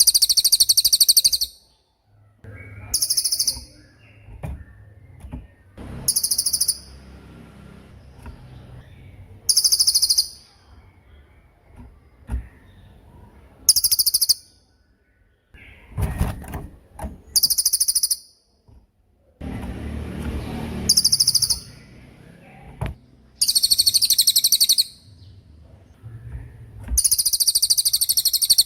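Cililin (small minivet) singing its 'tembakan' song: a series of loud, very high-pitched, rapid trills, each about a second long, repeated every three to four seconds, with fainter background noise between them.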